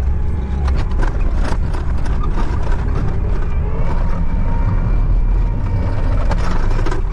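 Engine of a bucket loader running steadily under load, with occasional sharp knocks and clanks from the machine as it works.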